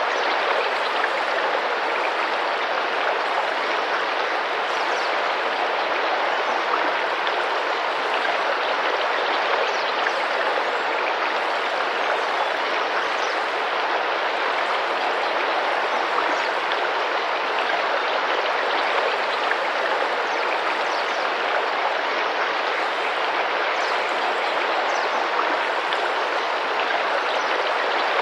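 Tropical rainforest river running steadily, its water splashing and rushing without a break. Faint short high bird chirps come and go over it.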